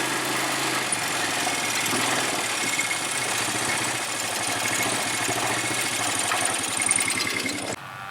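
ATV engine running steadily under a wash of road and wind noise, cutting off suddenly near the end.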